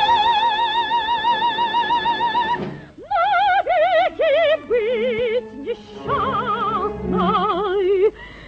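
Operatic soprano singing with a wide, regular vibrato. A long high note is held for the first two and a half seconds or so, breaks off, and is followed by a run of short sung phrases.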